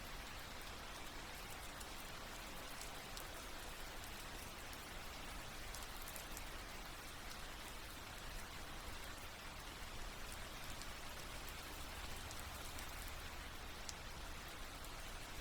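Soft, steady rain with scattered small drop ticks.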